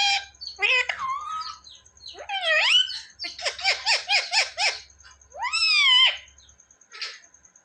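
Indian ringneck parakeet making high-pitched calls that slide up and down in pitch, with a quick run of about six short notes a second around the middle and one long rising-then-falling call near the end. A faint high pulsing tone runs underneath.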